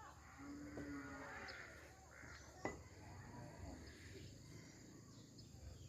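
Faint village ambience with a distant livestock bleat of about a second near the start. A single sharp click or knock comes about two and a half seconds in, over a low steady background.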